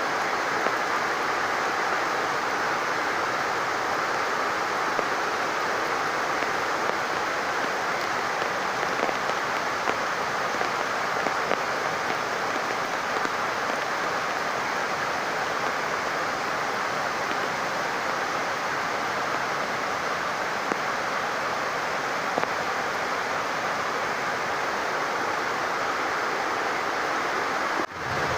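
Rain falling steadily with overflowing runoff water, a dense even hiss with faint scattered drop ticks. The sound drops out briefly just before the end.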